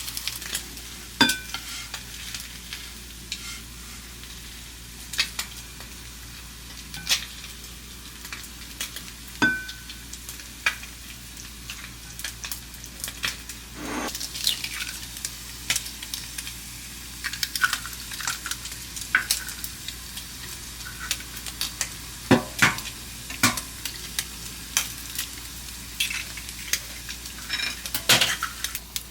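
Food sizzling in a frying pan, with a utensil scraping and tapping against the pan at irregular moments as the food is stirred and turned.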